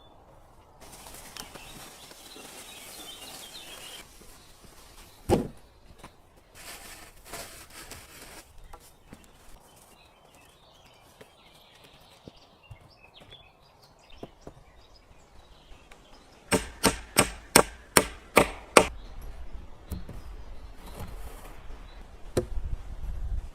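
Wood being chopped: one hard strike about five seconds in, then a quick run of about eight sharp chops, three or four a second, near the end, with rustling of wood being handled in between.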